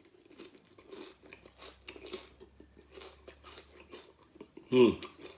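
Close-up chewing of crunchy tortilla chips: a run of crisp crunches a few times a second. About five seconds in comes a brief voiced hum that falls in pitch.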